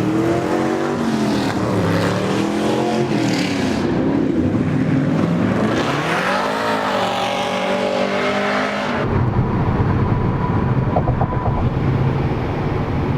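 Car engine revving, its pitch rising and falling several times. About nine seconds in it drops suddenly to a steadier low hum.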